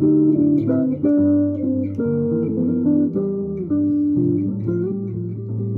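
Guitar music: a melody of picked single notes over chords and low sustained bass notes.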